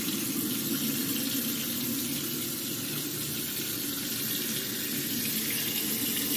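Kitchen faucet running steadily into a sink basin, the water draining freely down a drain that has just been cleared of a clog.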